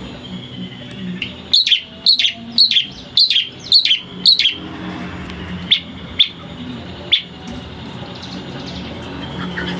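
Long-tailed shrike (cendet) singing: a quick run of about seven sharp, down-slurred notes, roughly two a second, then three more spaced farther apart. A steady low hum runs underneath.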